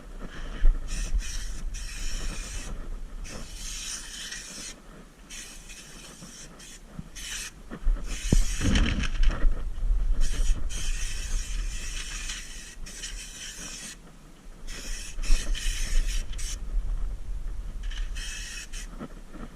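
Compressed-air spray gun spraying Noxudol rust-proofing compound in on-and-off bursts of hiss, each lasting one to a few seconds, over a steady low hum.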